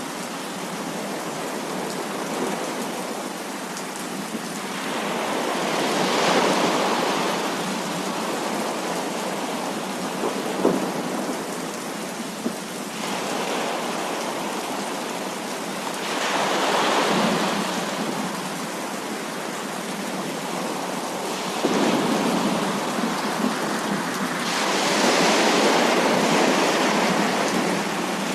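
Heavy rain pouring steadily, with rolls of thunder swelling up and dying away about four times, and one sharp crack a little before the middle.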